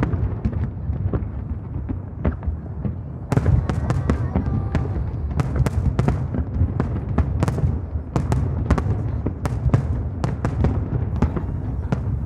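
Aerial fireworks going off in a rapid, irregular string of sharp bangs and crackles over a continuous low rumble. The bangs grow denser about three seconds in.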